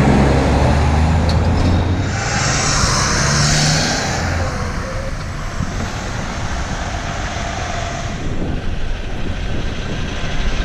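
City street traffic with a heavy truck's diesel engine running close by in a low, steady hum. From about two to four seconds in, a loud hiss rises over it, then steady road noise carries on.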